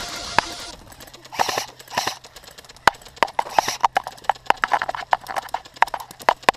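Music fading out about a second in, then airsoft guns firing: irregular sharp clacks and pops of varying loudness, several a second.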